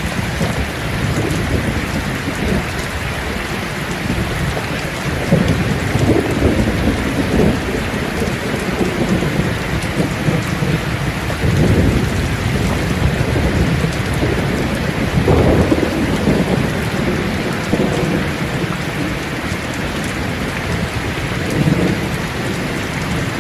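Steady rain falling on leaves, a dense even patter, with low rumbles swelling up every few seconds.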